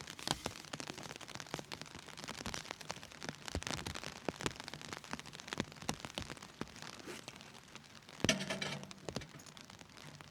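Rain falling steadily on a tent, with many irregular sharp pops and crackles. About eight seconds in, a brief pitched sound rises above the rain for under a second.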